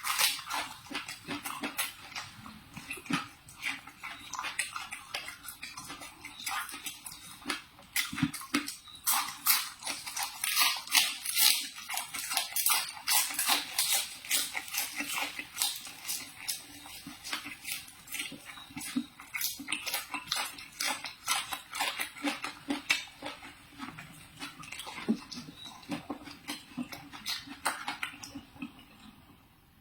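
Close-miked eating sounds: a person biting and chewing crisp food, a dense run of crunchy clicks that thins out and fades near the end.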